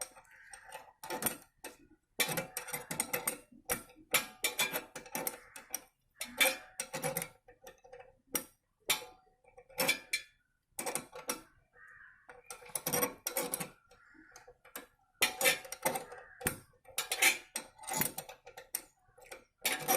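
Royal Enfield 350 rear drum-brake rod adjuster being turned, with repeated light metallic clicks and clinks at an uneven pace.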